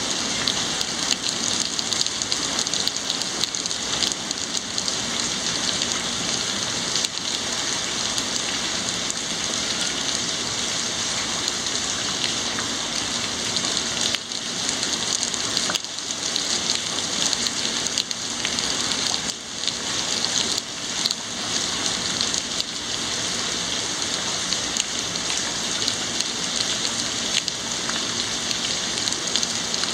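Heavy rain falling and pattering steadily on surfaces.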